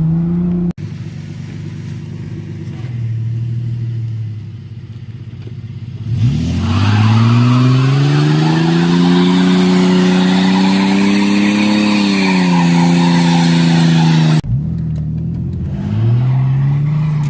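1998 Ford EL Falcon running through a new cat-back performance exhaust, revving up and down in short bursts, then revved hard and held high for about eight seconds while the tyres squeal in a skid; the sound breaks off sharply, as at a cut.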